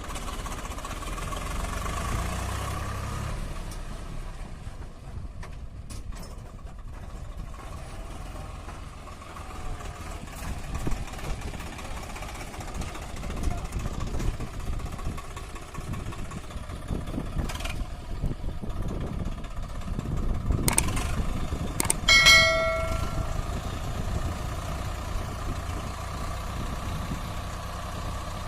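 Swaraj 744 FE tractor's three-cylinder water-cooled diesel engine running steadily under load, with a few sharp clicks and, about three-quarters of the way through, a brief pitched tone lasting about a second.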